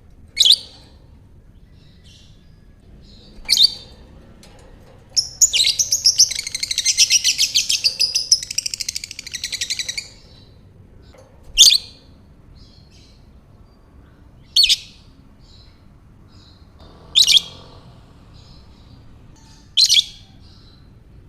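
Lovebird calling: sharp single shrill calls every few seconds, and about five seconds in a long rapid chattering trill lasting about five seconds, the 'ngekek' song.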